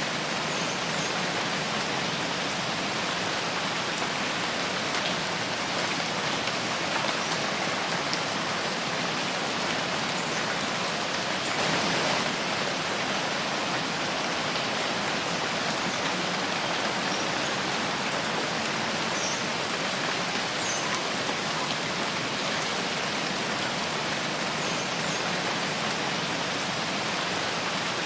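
Steady rain falling in a forest: an even, unbroken hiss of drops, briefly a little louder about twelve seconds in.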